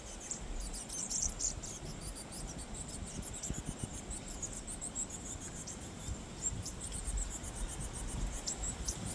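A flock of small birds giving many quick, high-pitched chirps while they feed on scattered bread, with a low rumble of wind on the microphone underneath.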